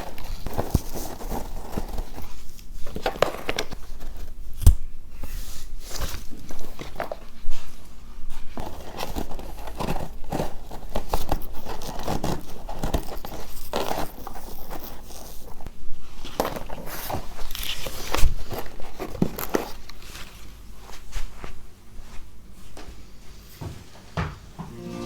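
Close-up household handling sounds: crinkling and rustling with irregular light knocks and clicks.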